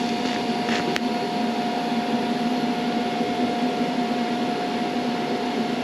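TIG welding arc on a rusty steel seat-frame bracket: a steady buzzing hum with hiss, and one sharp click about a second in.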